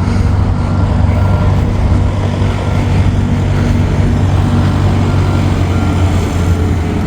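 A heavy vehicle's engine running steadily with a deep rumble. Faint short reversing beeps come twice, in short runs near the start and again near the end.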